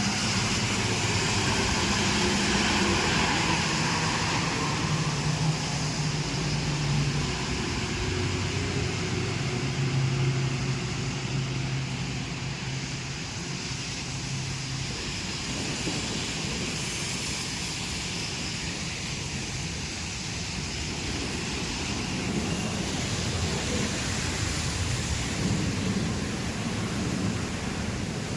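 Steady hiss of rain, with the low hum of a passing motor vehicle's engine over the first half that fades out about halfway through.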